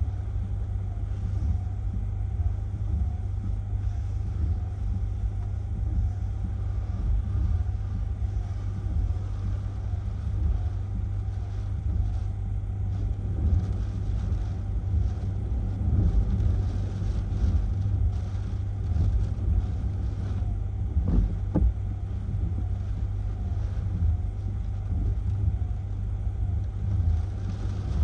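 Strong hurricane winds buffeting the microphone: a deep, gusting rumble that swells and eases in strength.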